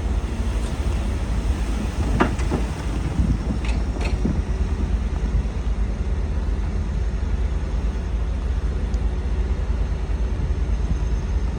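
Heavy diesel earthmoving machinery running steadily under load, with a deep engine rumble. A few short sharp sounds come about two to four seconds in.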